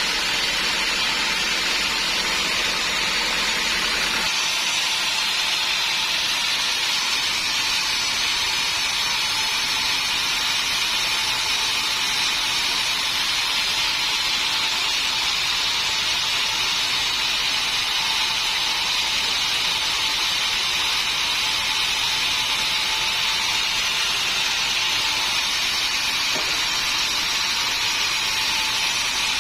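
Sawmill saw running steadily, a continuous hissing whine with a steady tone. A low hum underneath drops away about four seconds in.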